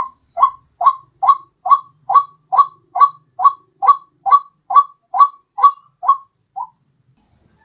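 White-breasted waterhen's (ruak-ruak) call from a lure recording: a rapid, even series of about sixteen short rising notes, a little over two a second. The series stops about a second before the end.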